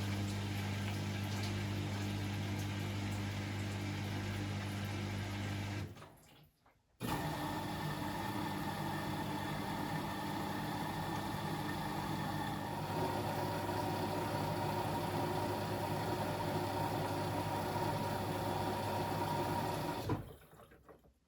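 Beko WML 71433 NP washing machine running with a steady hum and water noise. It stops about six seconds in, starts again a second later and stops again near the end.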